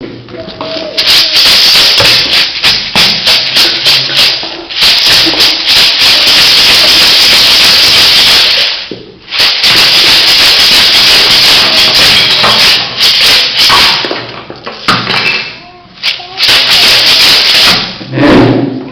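A hand shaker being shaken hard and fast, making a loud, dense rattle. It comes first in quick separate strokes, then in long unbroken stretches, with short breaks about nine and fifteen seconds in.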